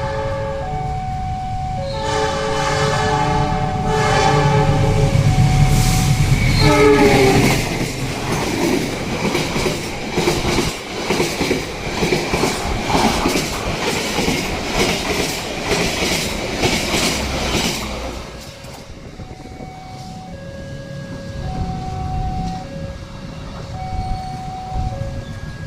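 Diesel passenger train passing a level crossing: repeated horn blasts over the first six seconds, the pitch dropping as it goes by, then about ten seconds of wheels clattering over the rails. After the train has gone, the crossing's warning signal keeps sounding a repeating two-tone chime.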